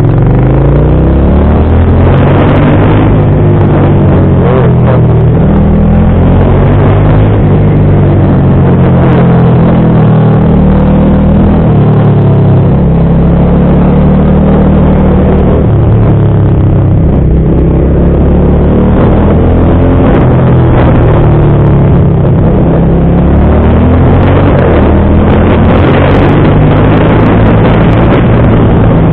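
Motorcycle engine running at speed, its revs rising and falling several times as the bike accelerates, shifts and slows.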